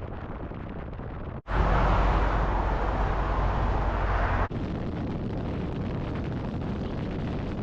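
Road and wind noise of a vehicle on the move, heard in three spliced clips; the middle one, about a second and a half in, is louder with a deep rumble before an abrupt cut back to lighter noise.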